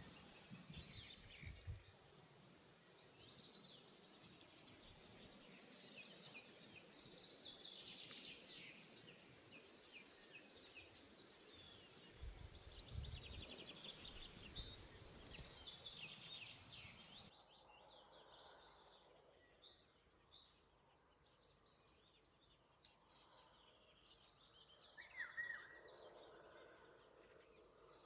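Faint songbird chorus: several birds chirping and trilling over a background hiss, which drops abruptly about two-thirds of the way in. A louder falling call comes near the end.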